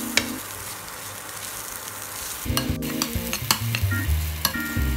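Onion, capsicum and tomato masala sizzling in oil in a frying pan while a spatula stirs it, with a few sharp clicks and scrapes of the spatula against the pan.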